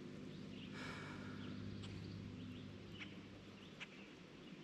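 Quiet lake ambience with a steady low hum and a few faint, short bird chirps in the second half, with a couple of light ticks.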